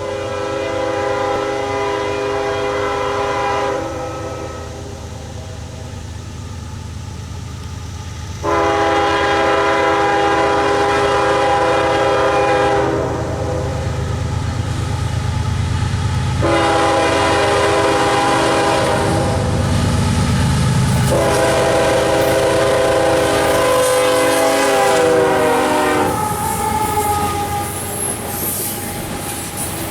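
CSX freight locomotive sounding its multi-chime air horn in long blasts with pauses, the third blast the longest, its chord sagging slightly in pitch as the locomotive passes, over the rumble of the diesel engines. Near the end the horn stops and the wheels of the passing train clatter over the rail joints.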